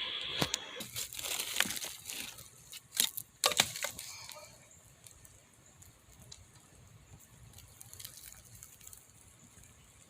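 A run of sharp woody cracks and crunches in the first four seconds, the sound of twigs or dry plant debris being crushed, then only a faint steady outdoor hiss.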